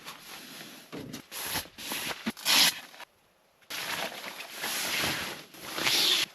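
Rustling and crinkling of a nylon sleeping pad being unpacked and unrolled before inflation, in irregular bursts with a short silent pause a little after the middle.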